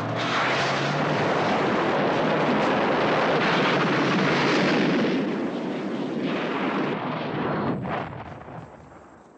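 Jet aircraft passing low overhead: loud noise that comes in abruptly, holds for about five seconds, then fades away.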